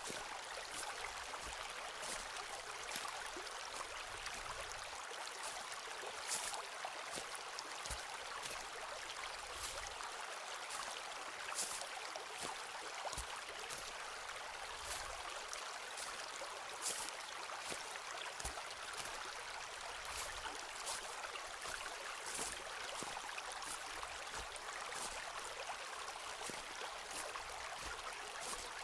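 Footsteps on a forest path: short crunches and soft thuds about once a second, over the steady rush of running water.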